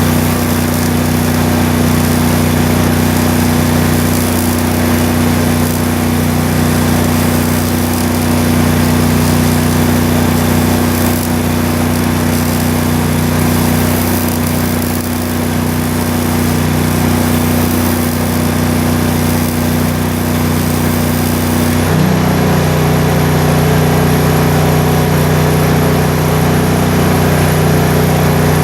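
An engine running steadily. About two-thirds of the way through its pitch changes and the high hiss above it falls away.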